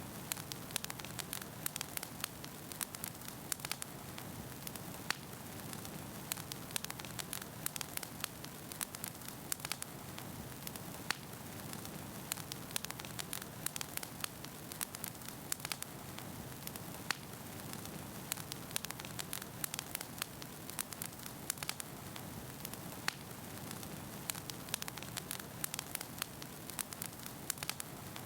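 Wood fire burning in a fireplace: a steady soft hiss with firewood crackling and popping in irregular sharp clicks, several a second.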